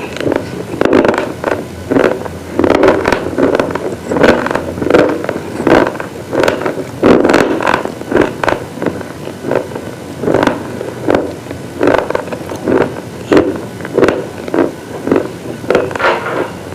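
Brittle chalky pieces being crunched over and over, a loud crunch roughly every half second to second in an uneven rhythm.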